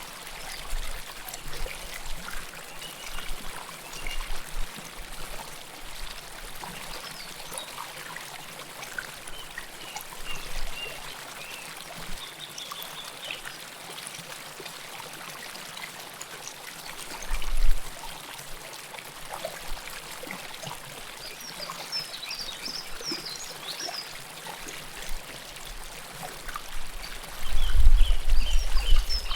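River water flowing and trickling close to the microphone, with many small splashes and plops throughout. A deeper rumble swells briefly about 17 seconds in and again near the end.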